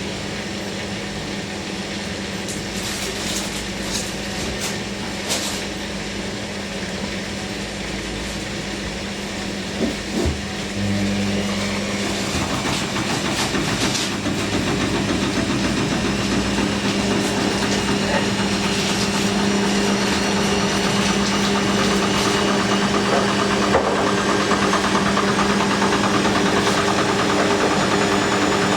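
Hoover NeXtra washing machine in its final spin. A few knocks come from the drum early on. About ten seconds in the motor takes hold, and the drum speeds up with a whine that slowly rises in pitch.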